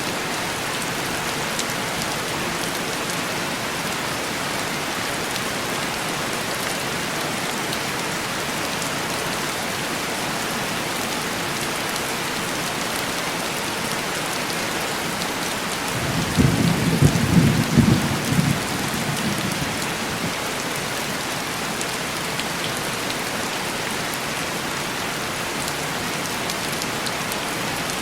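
Steady heavy rain tapping on window glass, with a low roll of thunder rumbling for about three seconds past the middle.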